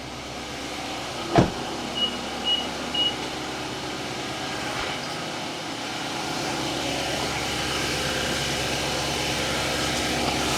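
Nissan Titan's 5.6-litre V8 idling steadily, freshly refilled with oil, with a sharp knock about a second and a half in followed by three short high beeps.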